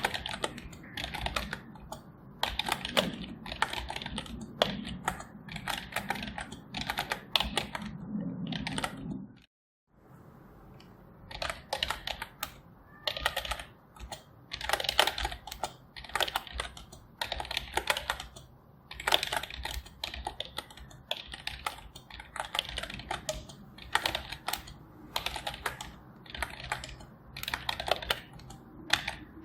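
Typing on a computer keyboard: a continuous, irregular stream of key clicks. The clicks stop dead for about half a second roughly nine and a half seconds in, then resume.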